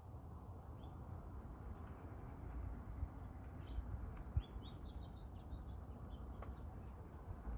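Small birds chirping in short, high notes, more often in the second half, over a steady low rumble, with one brief low thump about four seconds in.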